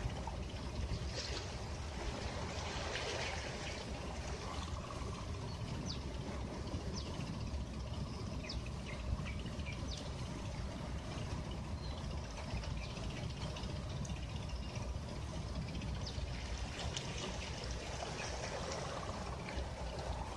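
Gentle sea waves washing on a beach over a steady low rumble. The wash swells about a second in and again near the end.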